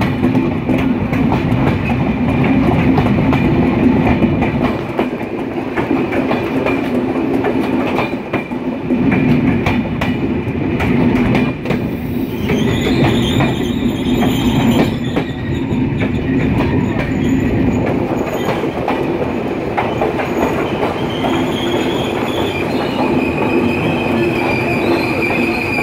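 Intercity express train running over the rails, its wheels clicking at the rail joints, with a steady high-pitched wheel squeal that grows stronger near the end, heard from an open carriage window.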